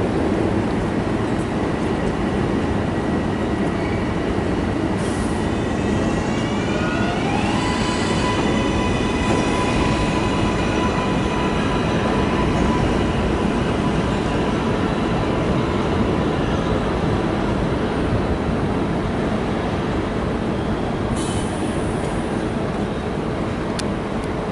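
R188 subway train running on the 7 line, with steady rail rumble. About six seconds in, its motors start a whine that rises in pitch as it picks up speed, then holds a steady whine as it cruises.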